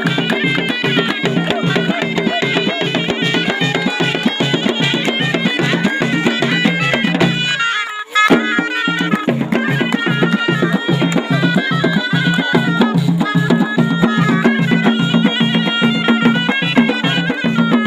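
Moroccan ghaita (folk shawm) playing a reedy traditional melody over a steady drum beat. Just before halfway the music cuts out for about a second, then comes back with a click.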